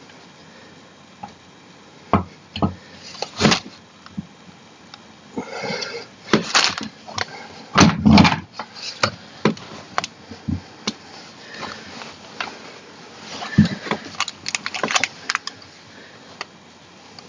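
Irregular knocks, clunks and scraping of gaming-chair parts being handled and fitted together during assembly, the loudest cluster of knocks about eight seconds in.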